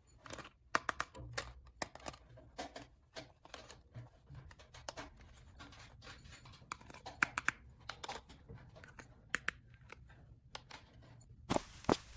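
Small plastic toy pieces and packaging being handled: scattered light clicks, taps and scratches, with a short tearing rasp near the end.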